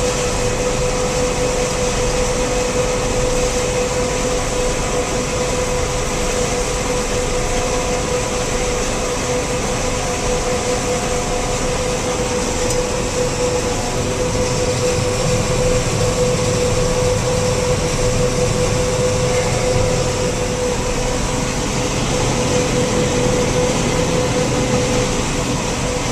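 Combine harvester running steadily while harvesting soybeans, heard from inside the cab: an even machine drone with a constant whine throughout.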